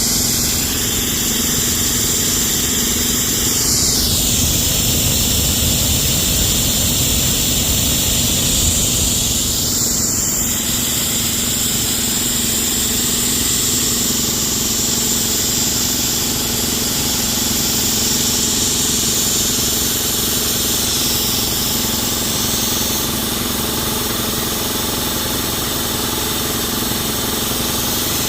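Backyard Snowstorm Cold Front snowmaking gun running at 5 gallons per minute, a steady high hiss of air and water spraying from its nozzle. An engine-driven machine hums steadily underneath. The hiss dips briefly twice, about 4 and 10 seconds in.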